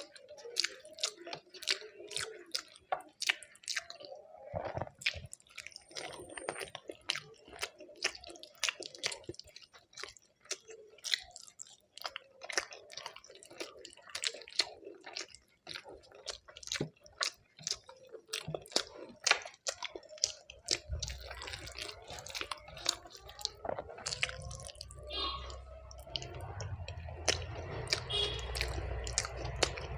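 Close-miked wet chewing with many quick mouth clicks and smacks as a person eats a rice meal. About two-thirds of the way in, a steady low hum sets in underneath.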